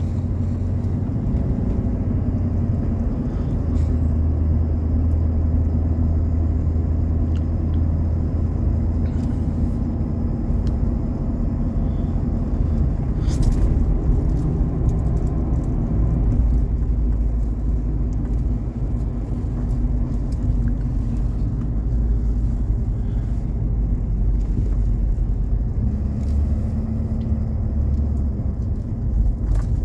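Engine and road noise of a moving vehicle heard from inside it, a steady low rumble whose pitch shifts slightly a couple of times.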